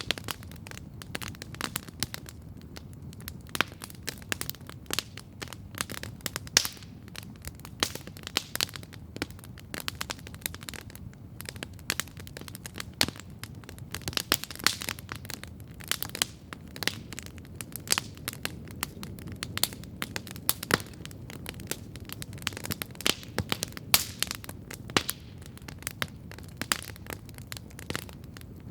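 Campfire crackling steadily, with dense irregular pops and snaps of burning wood over a low, even rush of the flames.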